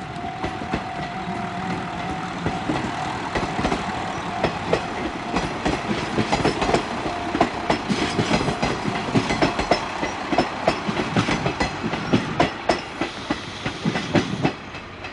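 JR Shikoku diesel railcar moving through the station, its wheels clattering over rail joints and points in a quickening, uneven run of knocks that grows louder before breaking off abruptly near the end.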